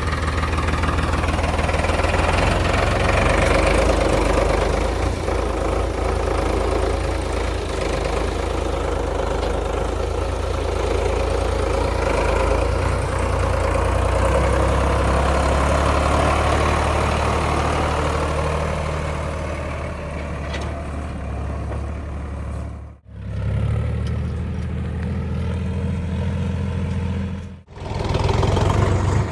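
Sonalika DI 50 RX tractor's diesel engine running steadily, with a dense mechanical clatter over its low drone. The sound drops out abruptly twice near the end.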